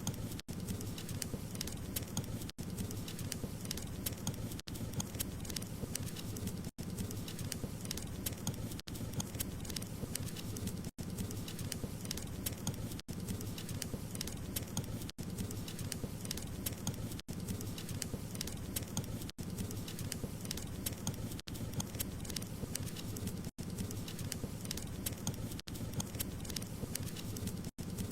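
Wood fire crackling steadily, with many small pops and snaps over a low even rumble. The sound drops out for an instant about every two seconds.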